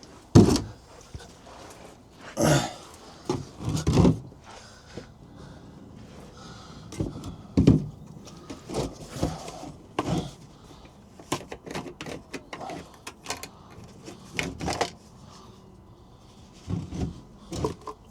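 Irregular knocks, clicks and rustles of hands working on a diesel heater fuel line and hose, with a louder knock about half a second in and small clusters of taps through the rest.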